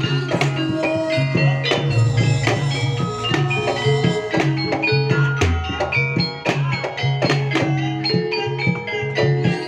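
Javanese gamelan-style music accompanying a barongan dance: drums and struck pitched percussion play a continuous rhythmic pattern, with a deep low note sounding briefly about five and a half seconds in.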